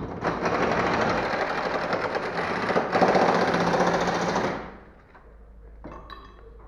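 Pneumatic impact wrench hammering on a fastener in a rapid rattle for about four and a half seconds, louder in its last second or so, then stopping.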